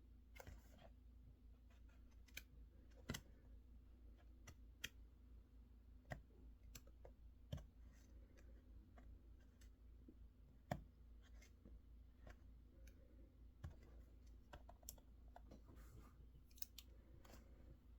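Faint, scattered clicks of mechanical keyboard keys pressed now and then rather than in a steady run, a few sharper than the rest, over a steady low room hum.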